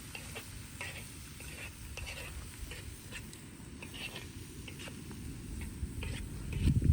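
Open-fire cooking: light, irregular crackles and scrapes over a low rumble, with a heavier thump near the end.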